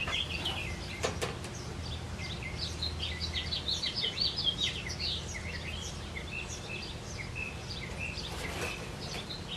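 Small birds chirping over and over throughout, over a faint low steady hum, with a single brief click about a second in.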